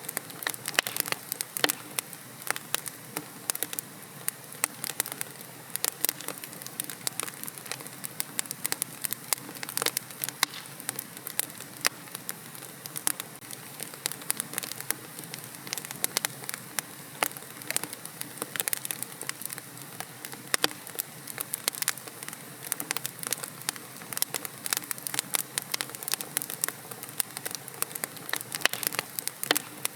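Wood logs burning in a fireplace, crackling with frequent sharp irregular pops over a steady low hiss.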